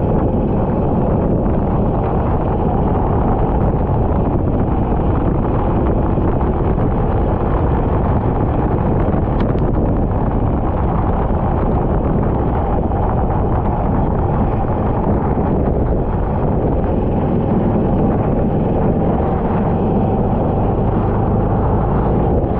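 Kart engine running at speed on track, largely buried under steady wind buffeting on an onboard camera microphone.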